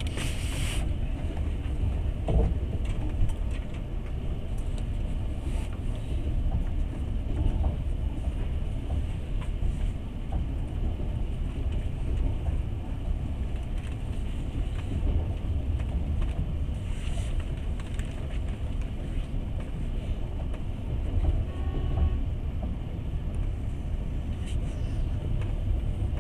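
Passenger train running, heard from inside the carriage: a steady low rumble of wheels on rails, with a few short clicks.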